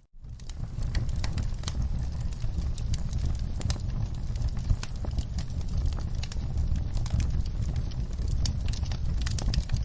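Wood fire in a fireplace crackling, with many sharp pops and snaps over a steady low rumble of the flames. The sound drops out briefly at the very start, then comes straight back.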